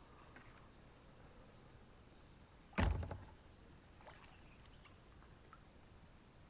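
Steady high-pitched insect chirring, with one sharp thump a little under three seconds in that dies away quickly.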